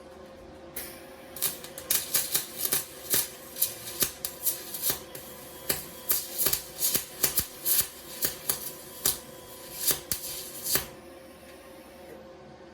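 Wire-feed welder arc crackling and popping in irregular bursts. It starts about a second in and stops after about ten seconds. The welder is new, and its wire feed catches.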